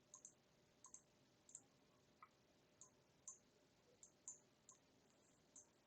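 Near silence broken by faint, irregular clicks of a computer mouse, about a dozen spread through the stretch.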